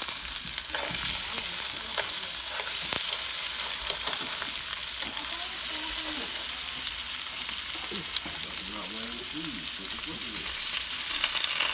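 Basted lobster tails searing in hot olive oil in a frying pan: a steady sizzle with a few sharp pops.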